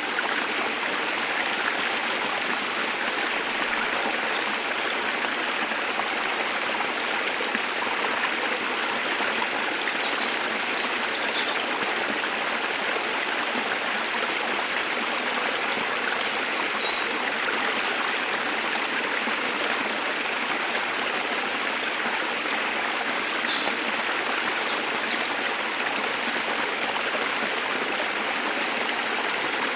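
A waterfall's steady rushing water, an even hiss without change. A few faint, brief bird chirps come through high above it now and then.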